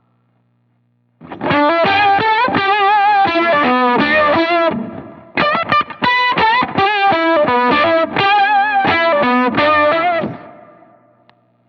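Electric guitar with fuzz distortion and a vibe-type modulation pedal playing two short single-note lead phrases with bends and wavering vibrato. The first phrase comes in after about a second of silence, and the second fades out near the end.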